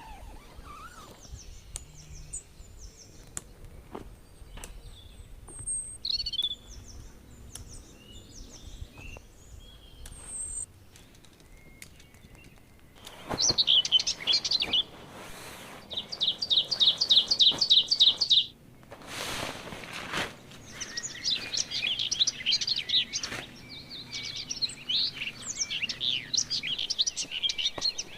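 Forest birds calling, with many short high chirps. About halfway through, one bird gives fast runs of repeated notes, around six a second. Near the end several birds chirp at once, and two brief rushes of noise come in the middle.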